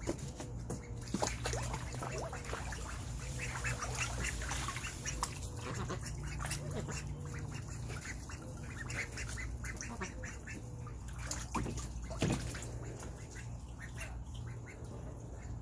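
Indian Runner ducks giving a run of short, repeated low quacks while dabbling and splashing in a small pool as they go after fish, with many quick clicks and splashes. A steady low hum runs underneath.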